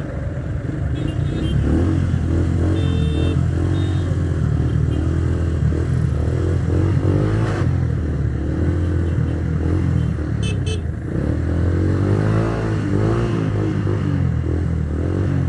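Minerva R150 VX's 150 cc single-cylinder SOHC engine pulling away from a standstill, getting louder a second or two in, its note rising and falling as it revs through the gears, with other traffic moving off around it.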